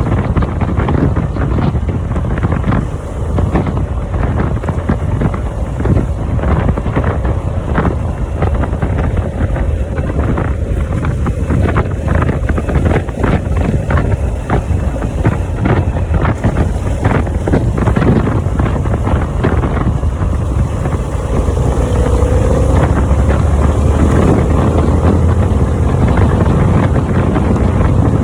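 Riding on a Harley-Davidson motorcycle: heavy wind buffeting on the microphone over the low, steady running of the bike's engine. It grows a little louder about two-thirds of the way through.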